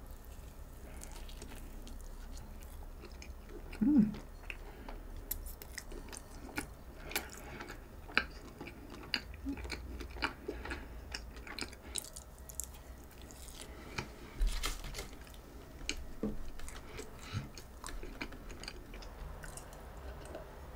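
Close-miked chewing and biting of a soft cream-filled chocolate donut: wet mouth sounds and many small clicks. A short louder mouth sound comes about four seconds in, and a low thump later on.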